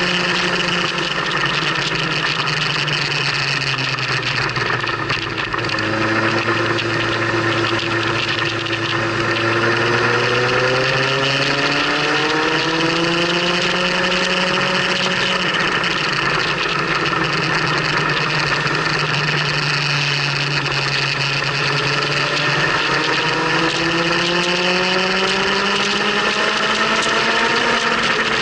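Motorcycle engine running under way, its pitch climbing as it accelerates from about six seconds in and again from about twenty-two seconds in, easing off in between. A steady rush of wind and road noise runs underneath.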